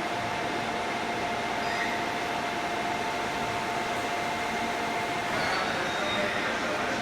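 JR E233-1000 series electric train pulling away, its traction inverter whining on two steady tones over rumbling running noise. About five and a half seconds in, the whine changes to several shifting tones.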